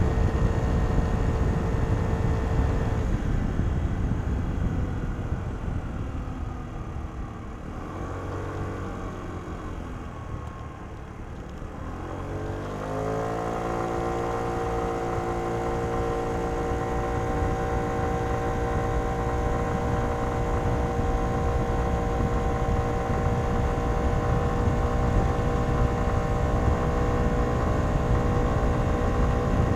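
Kymco Downtown 125i scooter's single-cylinder four-stroke engine through its stock exhaust, ridden: the revs fall away off the throttle and stay low for several seconds, then climb quickly about halfway through and hold one steady note, the CVT keeping engine speed constant as the scooter accelerates.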